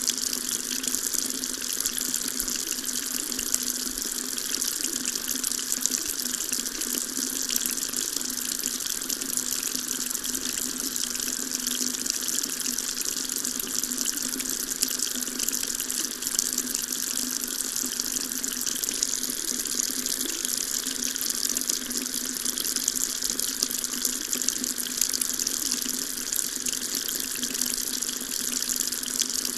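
Water tap running steadily into a sink, an even unbroken splashing hiss.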